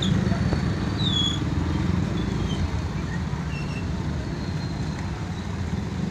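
Motorcycle and car engines running in road traffic, a steady low engine rumble that eases slightly after the start. A few short, high whistling chirps sound over it in the first couple of seconds.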